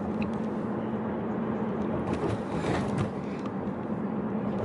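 Car cabin noise while driving: steady road and engine drone with a low hum.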